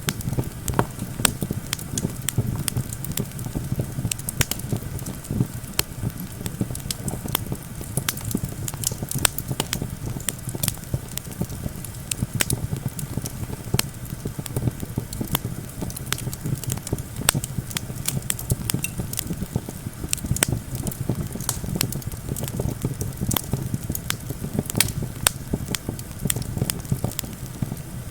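Wood campfire crackling, with frequent sharp pops and snaps over a steady low rush of wind.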